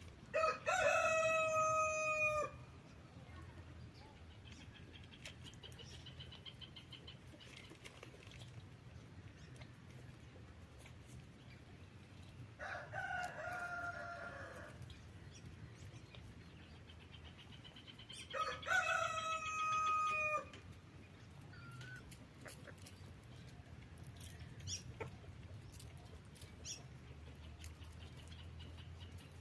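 Rooster crowing three times: two loud crows of about two seconds each, one right at the start and one about two-thirds of the way through, with a fainter crow between them.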